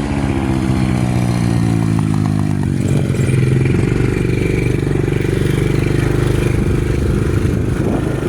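Dirt bike engine running under way: the revs fall over the first three seconds, then hold fairly steady.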